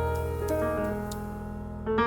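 Background piano music: sustained notes fading away, with a new chord struck near the end.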